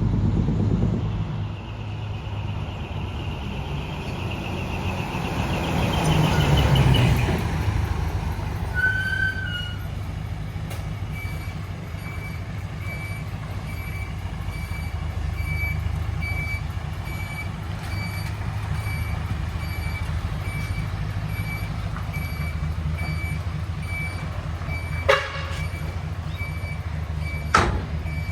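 Isuzu Forward truck's diesel engine with a split exhaust manifold, running with a deep rumble that rises in a rev around the first quarter and then settles back to idle. From about a third of the way in a steady repeating beep sounds over it, and two sharp short bursts come near the end.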